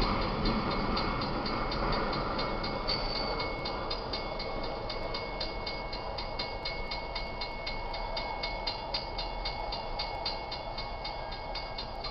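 Freight cars of a Union Pacific manifest train rolling past on steel rails: a steady rumble with rapid, evenly repeated clicking of the wheels, slowly fading.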